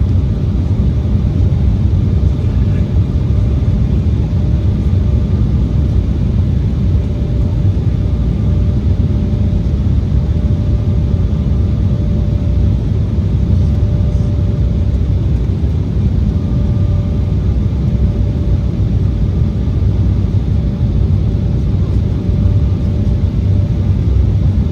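Steady cabin noise of an Embraer 175 airliner on final approach: a low, even rumble of airflow and its CF34 turbofan engines, with a thin steady tone running above it.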